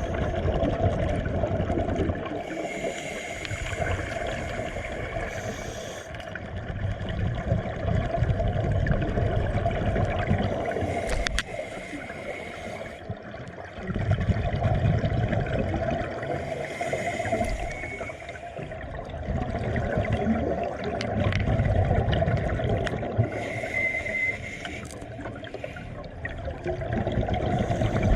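Water gurgling and trickling, with a hissing swell that comes and fades about every six seconds.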